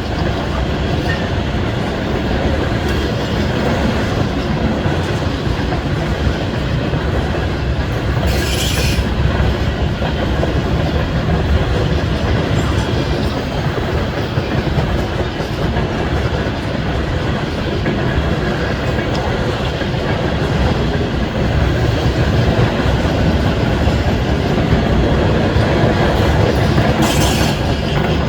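A loaded coal train of gondolas rolling steadily past, wheels clacking over rail joints, with two brief high-pitched wheel squeals: one about a third of the way in and one near the end.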